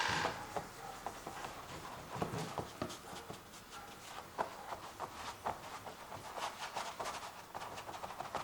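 Acrylic paint being applied to a canvas: irregular soft taps and short scraping strokes, with a louder scrape right at the start.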